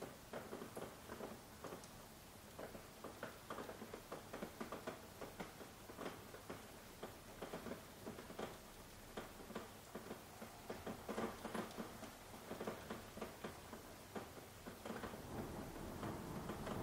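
Soft rain: many irregular drops tapping and pattering, several a second, over a faint steady hiss.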